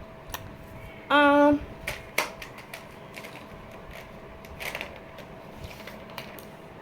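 Sketch pens clicking and tapping on paper while colouring, a scattering of sharp irregular clicks. About a second in, a short steady pitched note is the loudest sound, and a faint steady hum runs underneath.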